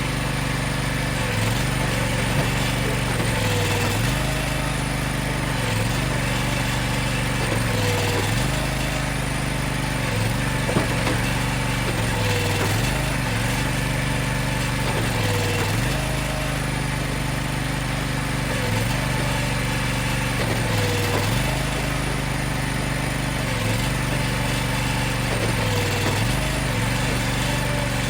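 Engine of a hydraulic firewood machine running steadily, its pitch dipping briefly and recovering about every two and a half seconds as it loads down under a repeating work cycle.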